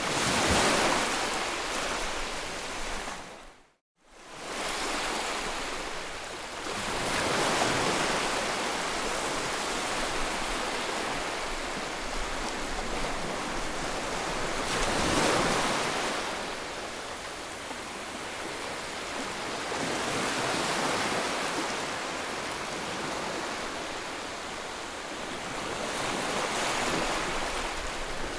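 Ocean surf: waves breaking and washing in, swelling and ebbing every six or seven seconds. The sound cuts out briefly to silence about four seconds in.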